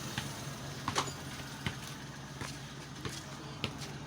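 Multicab's carbureted engine idling steadily after a carburetor adjustment and tune-up, its low idle raised, with a few scattered clicks and knocks of handling over it.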